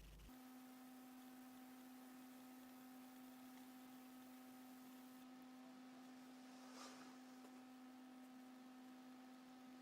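Near silence with a faint steady electrical hum, a single low tone with weaker higher overtones, that comes in just after the start.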